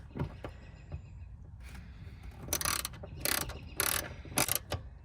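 Hand ratchet wrench clicking in four short bursts in the second half, turning the retaining bolts on the bracket of a fuel filter assembly set in the fuel tank opening.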